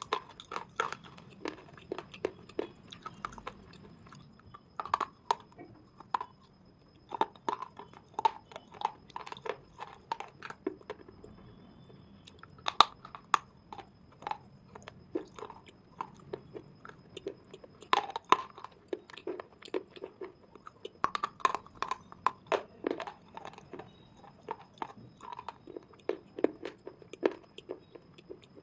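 Close-miked chewing of crunchy edible slate pencil pieces: irregular sharp crunches and clicks, with a few louder bites among them.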